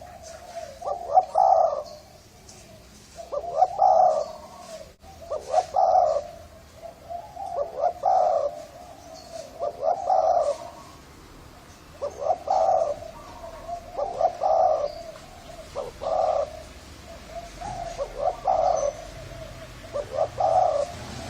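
Spotted dove giving its drawn-out, rolling 'thổ rền' coo, phrase after phrase, about one every two seconds.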